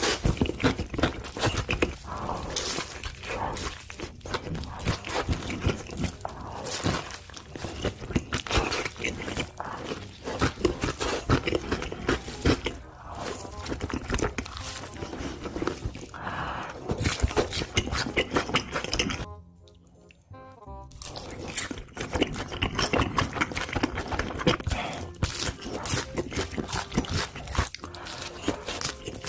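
Close-miked eating sounds, with crunchy bites and chewing, over background music. There is a brief quiet gap about twenty seconds in.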